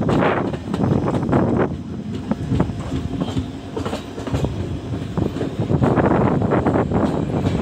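Passenger express train running, heard from on board a coach: a steady rumble of wheels on track with repeated clickety-clack of the wheels over rail joints, dipping a little in the middle and louder again near the end.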